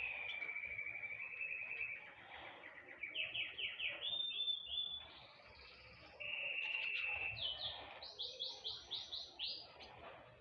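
Small songbird singing in varied phrases: a sustained buzzy trill, then a quick run of short high falling notes. The pattern repeats, and near the end comes a louder run of sweeping notes.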